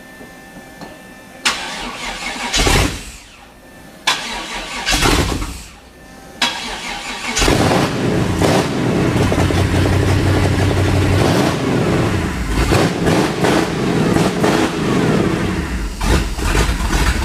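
383 cubic-inch stroker small-block Chevrolet V8 (hydraulic roller cam, fuel injection, stock exhaust manifolds) being cranked by its starter in three short tries before it catches about seven seconds in and keeps running: the first start of a freshly built engine.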